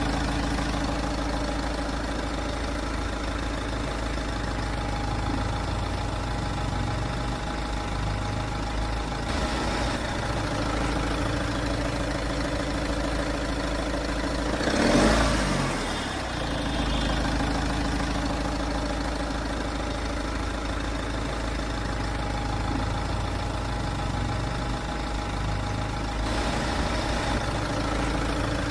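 Heavy vehicle engine running steadily at idle, with a brief rise in revs about fifteen seconds in.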